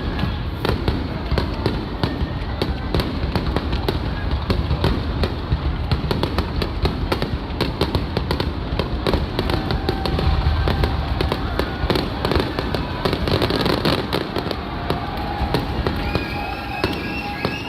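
Aerial fireworks going off in rapid, continuous barrages: dense crackling and many sharp bangs over a steady low rumble.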